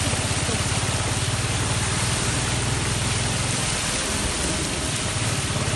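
Steady heavy rain, with a vehicle engine running underneath as a low, evenly pulsing hum.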